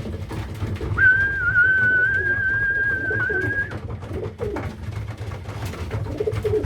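Young racing pigeons cooing in the loft, with one long, steady whistled note held for nearly three seconds starting about a second in, a keeper's call to bring the birds in to trap.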